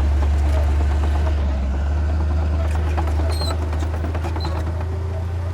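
Heavy diesel engine of an earthmoving machine running steadily, with scattered metallic clanks and a few short high squeaks.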